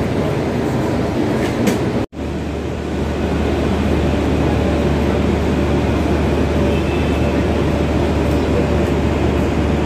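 Steady rumble of railway traffic at a station. It drops out abruptly about two seconds in, then carries on with a steady low hum under it.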